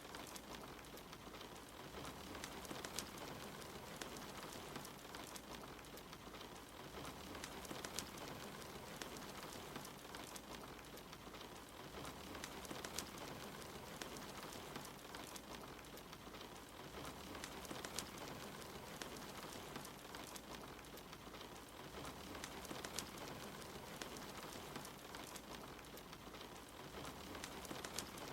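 Steady rain falling outside, mixed with a fireplace crackling, with sharp pops here and there.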